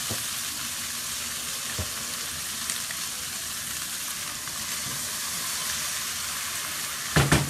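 Minced beef sizzling steadily as it fries in a non-stick pan, being stir-fried to brown it. A few sharp knocks come just before the end.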